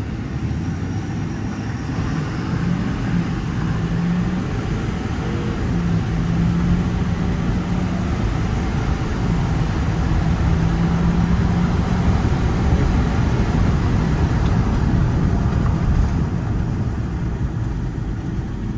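Ford 6.7 Power Stroke V8 turbodiesel pulling the F-550 truck along on the road, engine and road noise together. A droning engine tone comes and goes three times as it accelerates.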